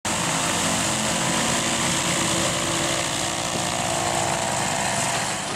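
Che-29 seaplane's Rotax 912 piston engines and propellers running at steady power, a loud even drone.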